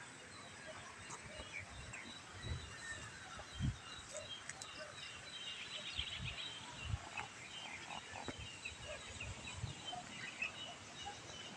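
Outdoor ambience with birds chirping here and there, faint, and a few low thumps, the strongest about four seconds in.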